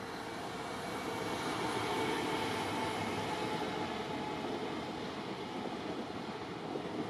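Container freight train hauled by an electric locomotive passing at speed. The rolling rumble of wheels on rail builds to its loudest about two seconds in, then carries on steadily as the wagons go by.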